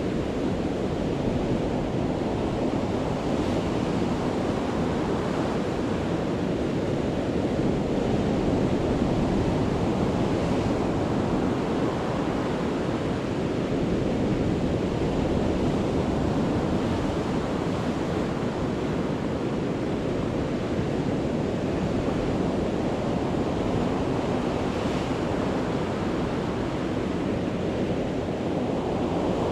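Sea waves breaking on a beach, a continuous surf wash that swells and falls every few seconds, with some wind on the microphone.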